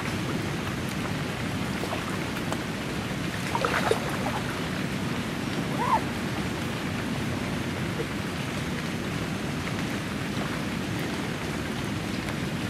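Steady rain falling on open water, an even hiss, with two short brief sounds about four and six seconds in.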